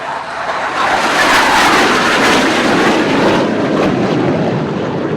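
Formation of BAE Hawk jet trainers flying past. The engine noise swells to a peak about a second in and fades after about three and a half seconds.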